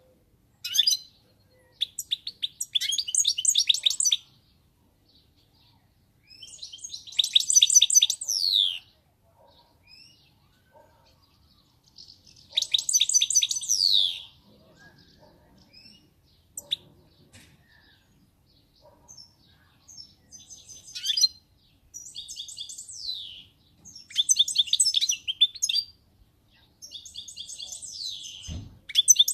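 European goldfinch singing in repeated bursts of rapid, high twittering song, each phrase a couple of seconds long with short pauses between. A brief low thump comes near the end.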